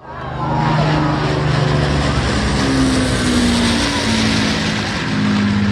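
Piston-engined propeller aircraft flying past, a steady loud engine drone whose pitch slowly shifts up and down.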